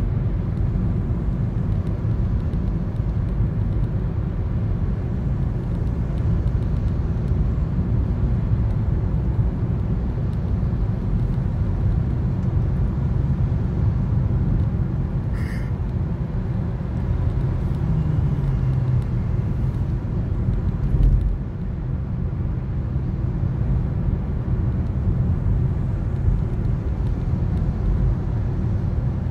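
Steady low rumble of a Toyota Corolla driving, its road and engine noise heard from inside the cabin. There is a brief click about halfway through and a low thump about 21 seconds in.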